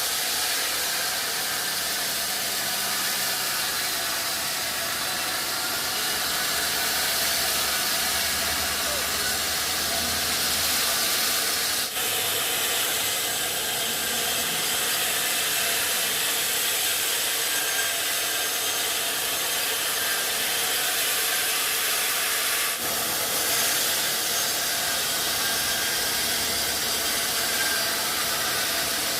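Sawmill saw running and cutting through redwood: a loud, steady, high rushing noise that drops out for an instant twice.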